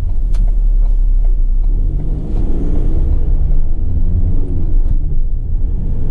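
Ford Transit tipper's diesel engine pulling away and accelerating, heard from inside the cab. Its pitch rises twice as it revs through the gears.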